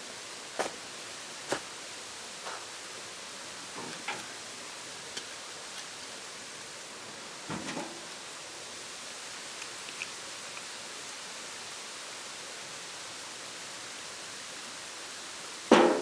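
Steady hiss of outdoor ambience with a few scattered light knocks and one loud knock near the end.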